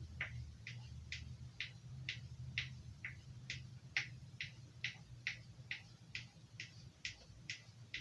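Carving knife blade stroked over a leather strop in an even rhythm of about two short swipes a second, honing the edge.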